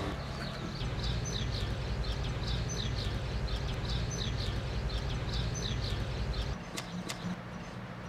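A small bird chirping over and over, about two short chirps a second, over a steady low outdoor rumble. A few sharp clicks come near the end.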